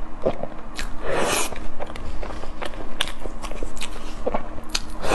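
Close-miked mouth sounds of someone eating a soft matcha crepe cake: moist chewing with many sharp lip smacks and mouth clicks, and a longer rustling smear about a second in.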